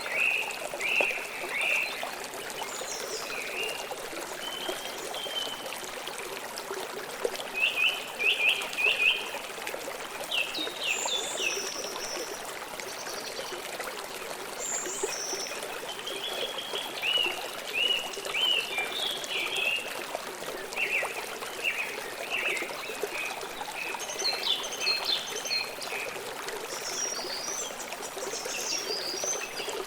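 River water flowing steadily, with birds chirping in short, repeated calls throughout; the loudest are a quick run of chirps about eight seconds in.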